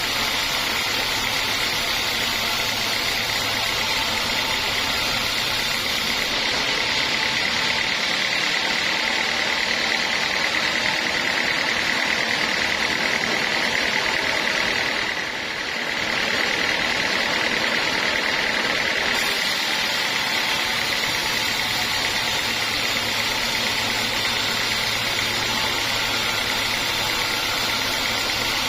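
Homemade band sawmill running steadily, a continuous machine noise with a high whine, sawing teak logs. The level dips briefly about halfway through.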